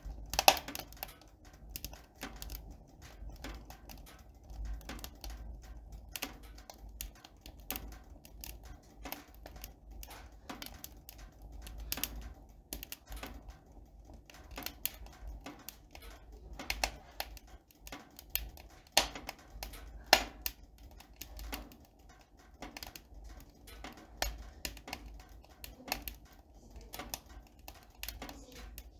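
Irregular small clicks and taps, several a second, like typing, over a faint low hum; a few louder knocks stand out near the start and around the middle.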